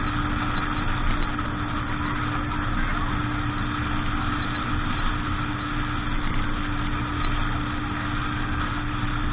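Boat engine running at a steady speed: a constant hum over an even rushing noise that does not change.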